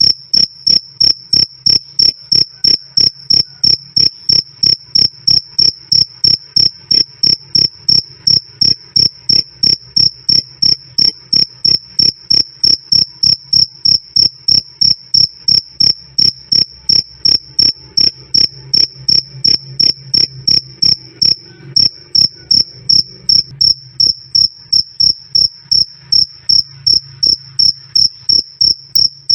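A cricket chirping on and on in a steady, even rhythm of about three high, clear chirps a second: the calling song of a male cricket.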